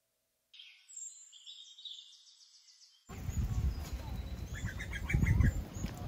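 Birds whistling and chirping, starting about half a second in. Just past halfway a louder low rumble suddenly takes over, with a quick run of bird chirps over it.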